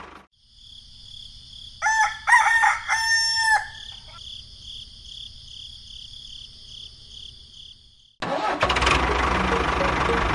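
Rooster crowing once, a call of several pitched syllables about two seconds in, over a steady pulsing high-pitched trill. Near the end, loud engine noise cuts back in abruptly.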